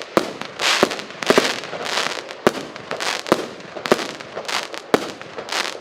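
Consumer firework battery (SV222 "Zub dayu") firing shot after shot: sharp pops about every half second to a second, each with a short noisy burst.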